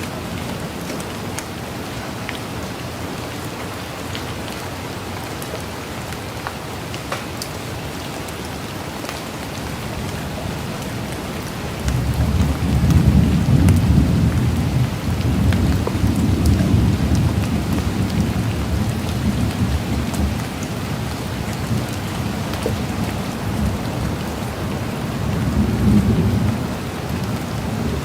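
Steady rain falling, with scattered drops ticking. About halfway through a low rumble of thunder comes in suddenly, rolls on for several seconds, and swells once more near the end.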